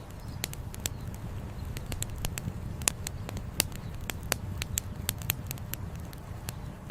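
Wood campfire crackling, with frequent irregular sharp pops and snaps, a few louder than the rest, over a steady low rushing background.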